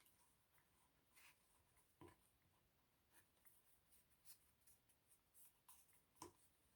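Near silence with faint, scattered rustles and light taps of paper being brushed and smoothed down with Mod Podge.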